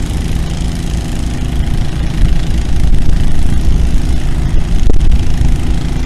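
A large engine running steadily, a little louder from about two seconds in.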